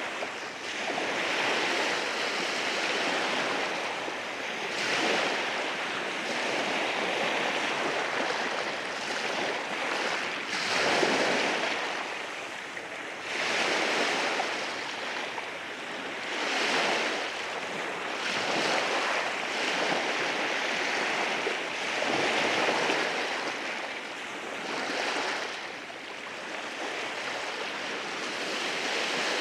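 Sea waves rolling in over rocks on a rocky shore: a continuous wash of surf that swells and falls back every few seconds.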